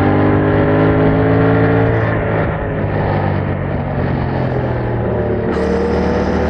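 Yamaha MT-07's parallel-twin engine through its stock exhaust, pulling up through the revs with a slowly rising note. About two seconds in the note breaks off and goes rougher, and near the end it picks up and climbs again.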